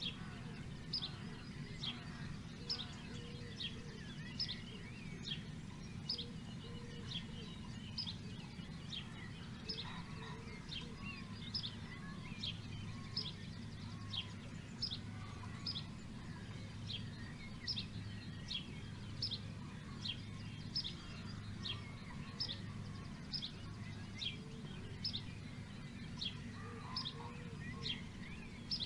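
A bird repeating one short, high chirp over and over, about once a second, over a steady low rumble of background noise.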